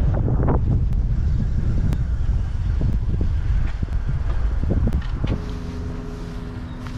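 Low rumble of a moving road vehicle with scattered knocks and rattles. About five seconds in it eases off to a steady low hum.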